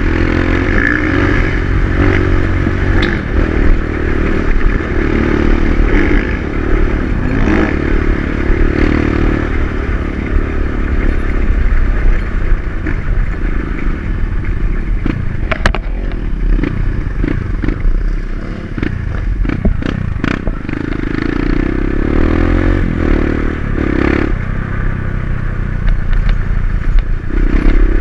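Dirt-bike engine running under a rider on an off-road trail, its pitch rising and falling with the throttle, with rattles and knocks from the bike and ground throughout.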